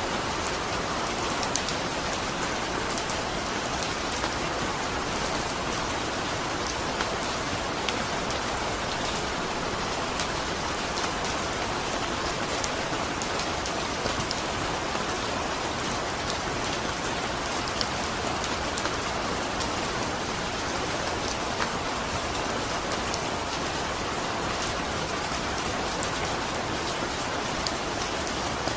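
Steady rainfall, an even hiss with scattered sharp raindrop ticks.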